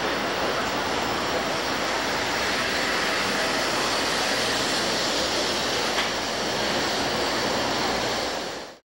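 Shinkansen train moving along the platform track: a steady, even train noise that cuts off abruptly near the end.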